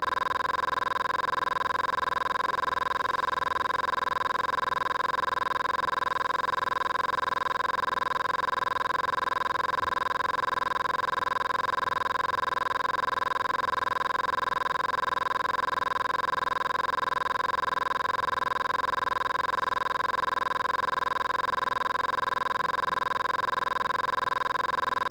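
A steady, unchanging electronic-sounding tone made of several high pitches at once, like a dial tone, that holds without a break.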